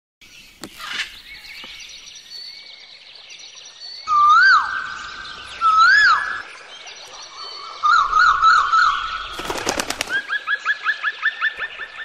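Songbirds singing: clear whistles that swoop up and down, two of them loud in the middle, then a warbling trill. After a short burst of rapid clicks near the end, one bird gives a fast run of rising chirps, about seven a second.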